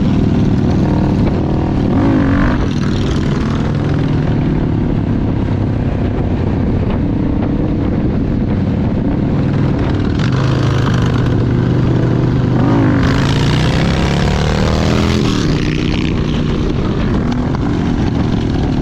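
Motorcycle engine running under way, its pitch shifting a few times as it revs and changes gear, with rushing wind noise over it that gets louder for a few seconds near the middle.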